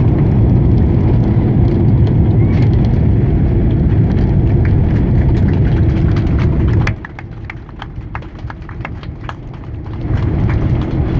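Cabin noise inside a Boeing 767 just after landing: a loud low rumble that drops suddenly about seven seconds in, leaving a quieter hum with a string of light knocks, before it builds again near the end.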